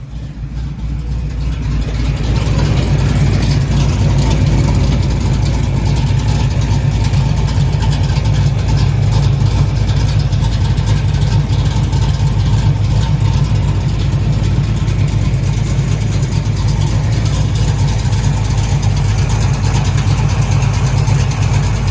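Car engine idling through a dual exhaust with freshly welded-in stainless Flowmaster mufflers and an H pipe: a steady deep rumble that grows louder over the first couple of seconds, then holds even.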